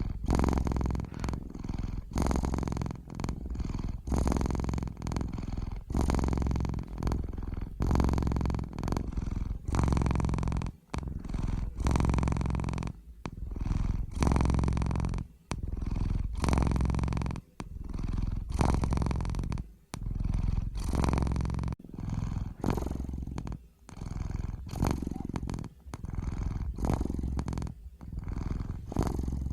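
Domestic cat purring steadily and close up, the purr swelling and easing with each breath in and out, about one breath every one to two seconds.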